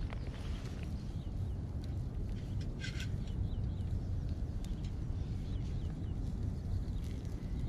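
Small birds chirping in short calls, one louder call about three seconds in, over a steady low rumble.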